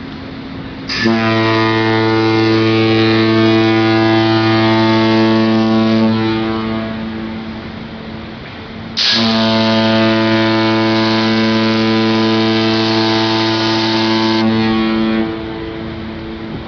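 Cruise ship's horn sounding two long, deep blasts, each about five seconds. The first dies away slowly; the second stops more abruptly.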